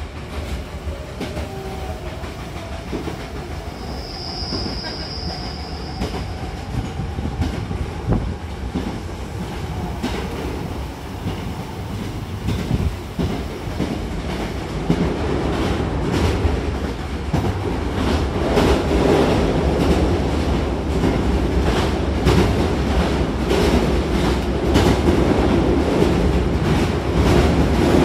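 Hankyu 1000-series commuter train heard from inside the car while running: a steady rumble with wheels clicking over rail joints, growing louder from about halfway. A brief high whine comes about four seconds in.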